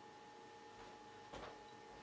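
Near silence: room tone with a faint steady hum, and one faint click about one and a half seconds in.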